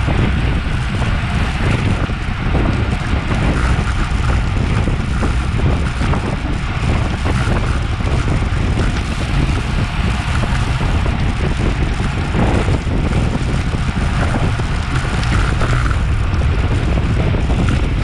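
Wind rushing over an action camera's microphone on a bicycle at race speed, a steady heavy low rumble.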